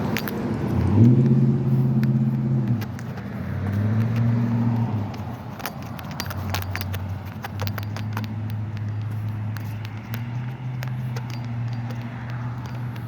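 Cars driving by on a street, their engine and road hum coming and going in several passes, loudest about a second in. Many light clicks and jingles run through the middle of the sound.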